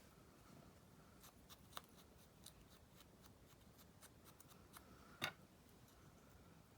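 Faint handling of paper and small craft tools: light rustles and scattered small ticks, with one sharper click about five seconds in.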